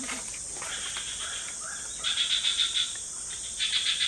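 Forest insects calling: a steady high-pitched drone under repeated bursts of fast, evenly pulsed chirps, about seven pulses in each, twice in quick succession, about two and three and a half seconds in.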